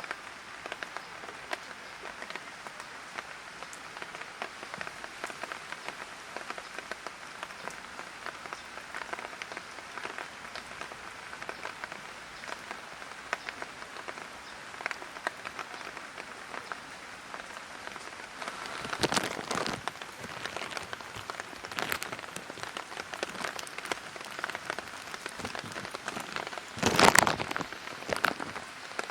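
Light rain falling, with many small drops ticking and pattering steadily. A louder rush comes about two-thirds of the way in, and a brief, louder one lasting about a second comes near the end.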